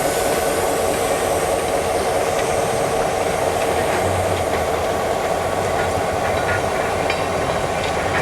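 A train rolling past, a steady rumble with faint clicks of wheels over rail joints toward the end.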